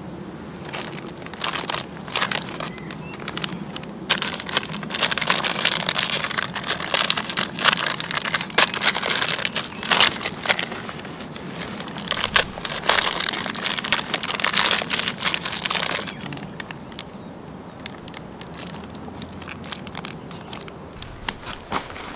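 Dense crinkling and crackling with many sharp clicks, heaviest for about twelve seconds in the middle, then thinning to a few scattered clicks.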